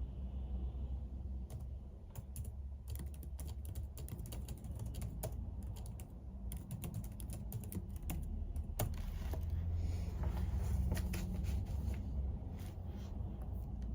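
Typing on a computer keyboard: quick runs of key clicks with short pauses between them, over a low steady hum.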